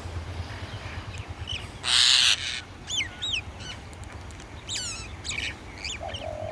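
Wild birds calling: one loud, harsh call about two seconds in, then short whistled chirps that rise and fall, over a low steady hum.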